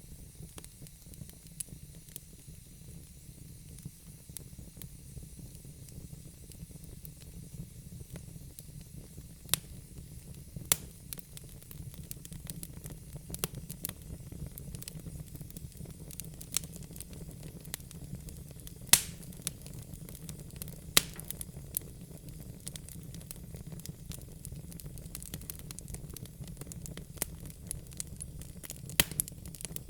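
Wood fire burning in a fireplace: a steady low rumble and hiss of the flames with irregular sharp crackles and pops from the logs, a few of them much louder than the rest.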